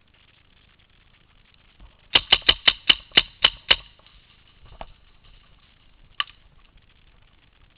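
Paintball marker firing a quick string of about nine shots, around five a second, then two more single shots.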